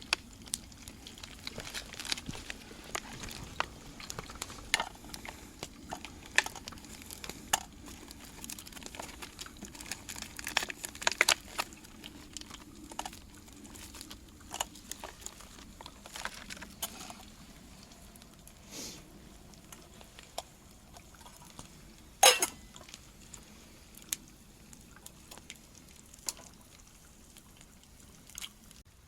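Sausages frying on a campfire, with irregular sharp pops and crackles over a low steady hiss; the loudest crack comes about 22 seconds in.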